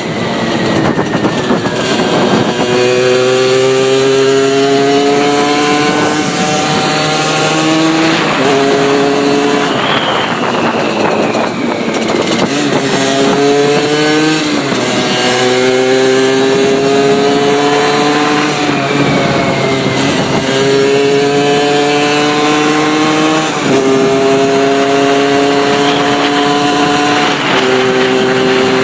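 Suzuki SMX moped's RG80 two-stroke engine with an open intake, under way. Its note climbs steadily through each gear and drops at the gear changes, several times over, with wind noise.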